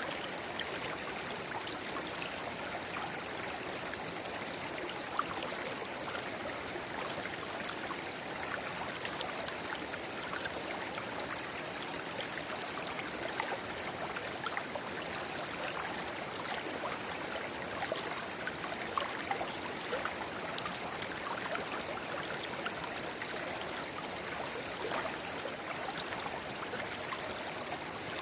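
A shallow river babbling steadily, with a small spring-fed rivulet splashing into it; an even rush of water dotted with small splashes and droplet ticks.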